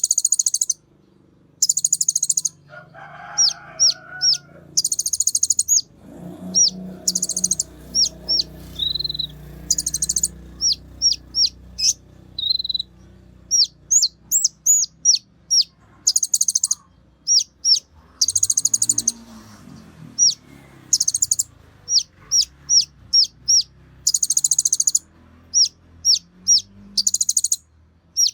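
Konin bird singing: rapid, very high buzzy trills about a second long, alternating with runs of quick, sharp high chips, repeated over and over.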